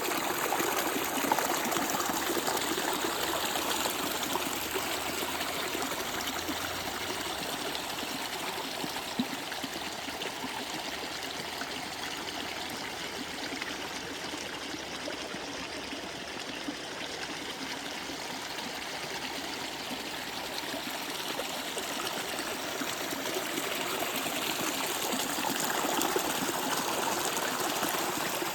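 Running water flowing steadily, a continuous trickling rush with no pauses.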